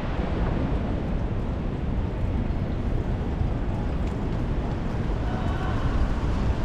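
Strong wind buffeting the microphone: a dense, steady low rumble.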